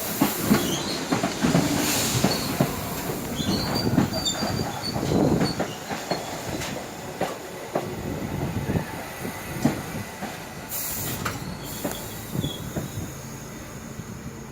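New York City subway train running over rail joints, its wheels knocking in a clickety-clack with a few short, high wheel squeals. The sound slowly fades toward the end.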